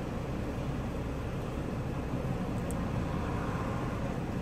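Car engine idling, a steady low rumble heard from inside the car.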